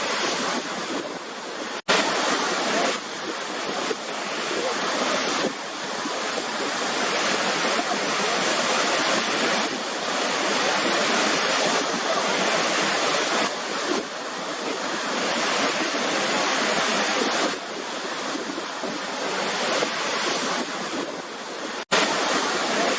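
Waterfall: a steady, dense rush of falling water. It cuts out for an instant twice, about two seconds in and near the end, where the recording is spliced.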